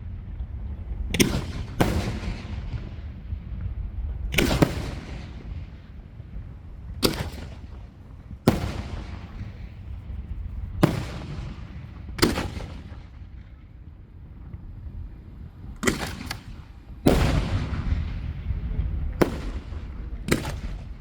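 Fireworks shells bursting in a display: about a dozen sharp booms at irregular spacing, each trailing off in an echoing tail, with a continuous low rumble between them. A quick pair of bursts comes near the end.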